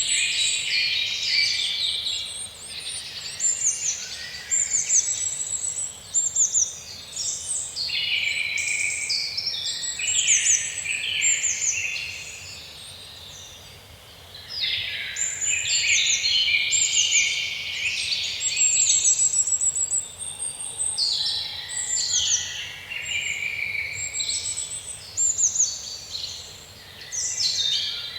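Birds chirping and singing, many overlapping calls and quick high trills in phrases, with a brief lull about halfway through.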